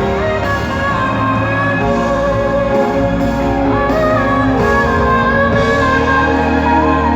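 Female pop singer belting long, high held notes with vibrato over live band accompaniment.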